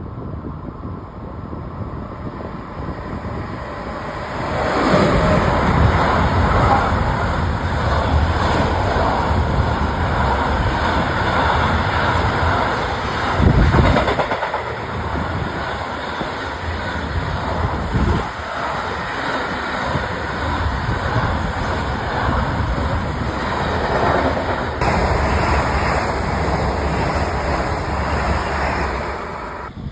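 A train passing close by. A steady rushing rumble builds about four seconds in and holds for about twenty-five seconds, with a couple of sharp louder jolts along the way, then eases near the end.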